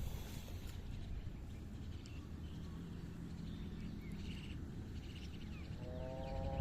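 Outdoor rural ambience: a low steady rumble with faint bird chirps. Near the end a drawn-out animal call begins, sliding slightly down in pitch.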